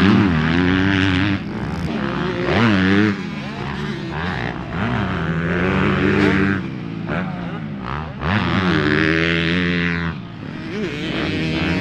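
Dirt bike engine riding a motocross track, revving up and dropping off several times as the throttle is opened and chopped.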